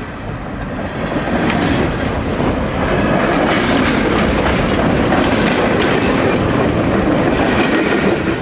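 Freight train cars rolling past close by at slow speed, their steel wheels clattering and knocking over the rail joints. The noise builds over the first couple of seconds, then holds steady.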